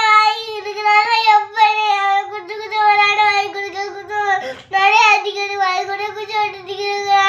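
Young child crying loudly in long, drawn-out wails, with a short catch of breath about four and a half seconds in.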